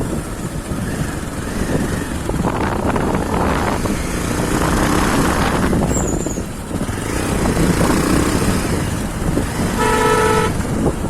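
Motorcycle running along the road with wind rushing over the microphone; a horn toots once, briefly, near the end.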